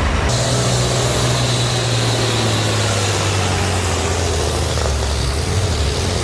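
Antique farm tractor engine running steadily at high load during a tractor pull, with a broad hiss over the engine note.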